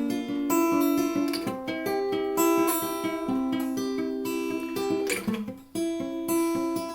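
Acoustic guitar fingerpicked in a repeating arpeggio pattern, each picked note ringing into the next. There is a brief break about five and a half seconds in before the pattern resumes.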